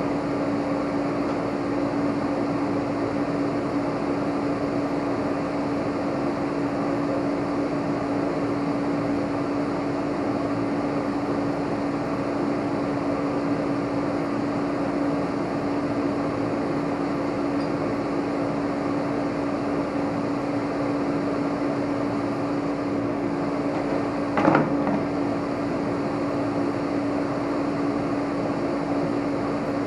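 Steady mechanical hum with one constant low tone, broken by a single knock about three-quarters of the way through.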